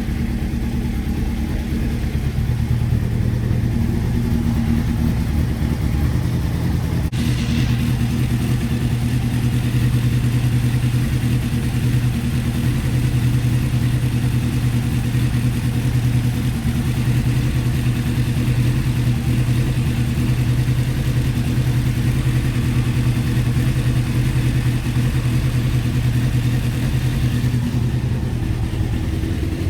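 Honda CBR600F3 inline-four engine idling warm without choke, running steadily with a lumpy idle. Cylinders 1 and 2 are running cold and rich, which the owner puts down to the carburettors being out of sync. There is a faint click about 7 seconds in.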